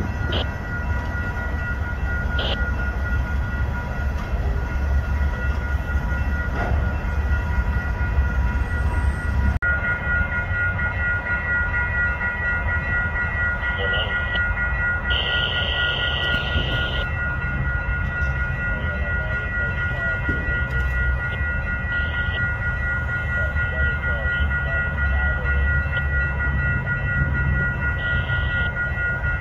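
Slow-moving freight train switching cars: a steady low rumble of the diesel locomotive and rolling cars, over which a grade-crossing warning bell rings steadily on a high note. A few short high squeals come and go, the longest about halfway through.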